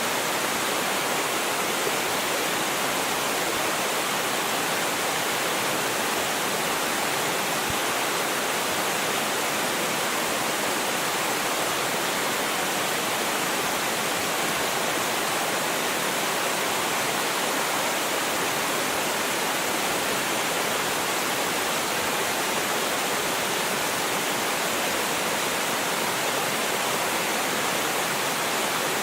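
Water of a small mountain waterfall, more a cascading stream than a falls, pouring steadily with an even rushing hiss.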